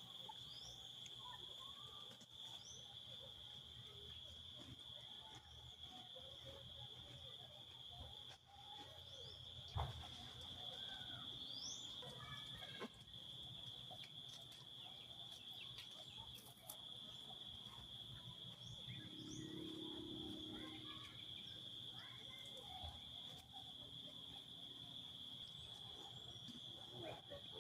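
Faint outdoor ambience: an insect, cricket-like, drones on one steady high note throughout, with scattered short bird chirps and calls over it and a single sharp click about ten seconds in.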